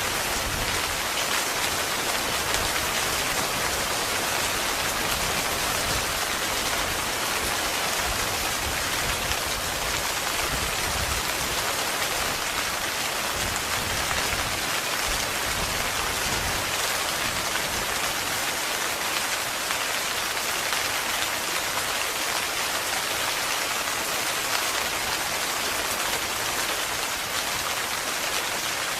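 Heavy, continuous rain drumming on a tent, an even, unbroken downpour.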